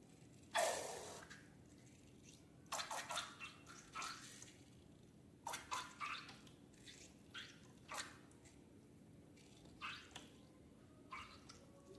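Slime and liquid slime ingredients being poured and worked by hand: a series of short wet squelches and drips at irregular intervals, the loudest about half a second in.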